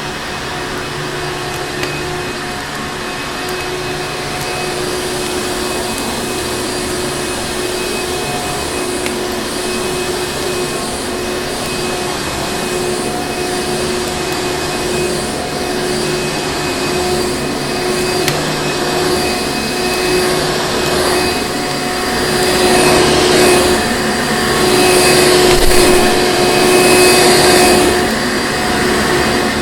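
Vacuum cleaner running continuously, a steady motor whine over rushing airflow. It swells louder with hissing surges for several seconds near the end.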